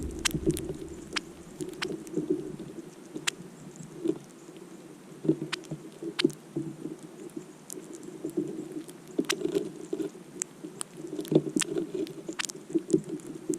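Small birds at a snowy feeding spot giving short, sharp chip calls, scattered about once a second, over a low, uneven hum.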